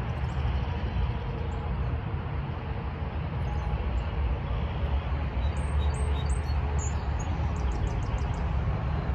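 Small birds chirping high and thin over a steady low rumble. There are scattered single chirps, a few close together around the middle, and near the end a quick run of about six short high notes.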